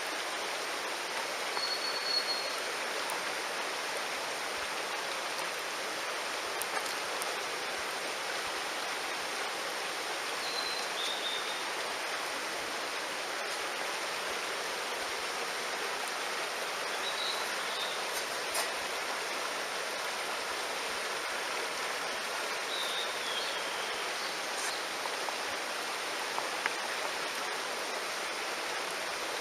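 Mountain stream running steadily. A few brief high whistled calls sound over it, along with a few faint clicks.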